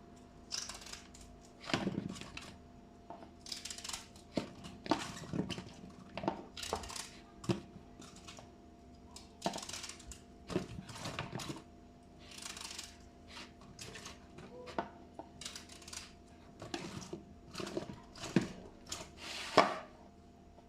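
Kitchen handling sounds: irregular knocks, clinks and short scrapes of utensils and dishes, over a faint steady hum.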